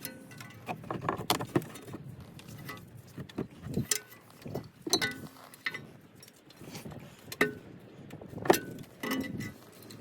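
Metal tools and brake parts clinking and knocking at irregular intervals, some strikes leaving a short metallic ring, as work goes on at a car's rear brakes.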